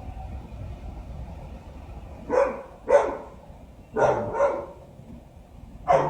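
A dog barking: about five short barks, mostly in pairs, starting a little over two seconds in, over a steady low rumble.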